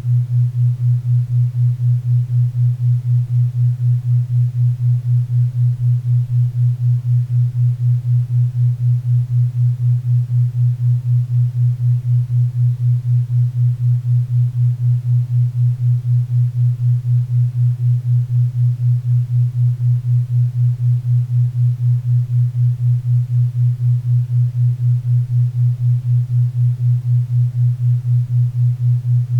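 A 4 Hz theta-wave beat: a steady low hum-like tone pulsing evenly about four times a second, over faint pink and brown noise.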